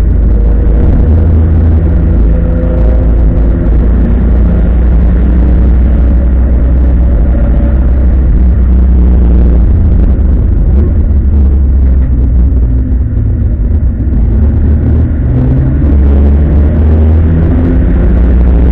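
Opel Commodore A race car's engine heard from inside the cabin at racing speed: a loud, heavy low rumble whose pitch rises and falls with the revs, easing briefly about thirteen seconds in.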